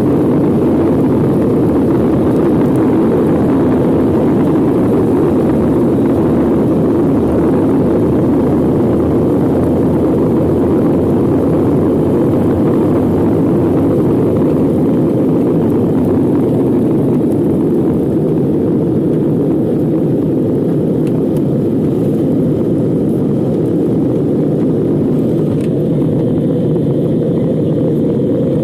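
Airliner cabin noise: a steady, even rumble of jet engines and airflow heard from inside the cabin.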